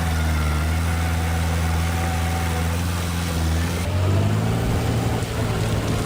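Heavy diesel engine of earthmoving machinery running steadily, then revving up about four seconds in.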